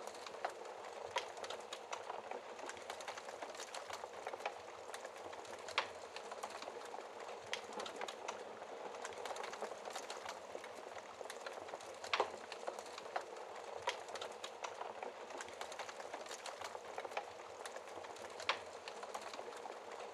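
Wood fire crackling in a fireplace: a steady bed of fine snapping and hissing with scattered louder pops, three of them standing out.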